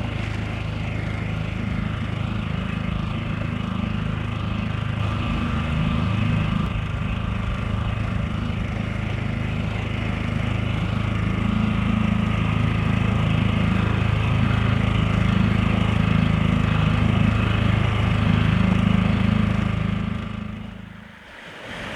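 Small outboard motor on an inflatable dinghy running steadily under way, then cut off near the end.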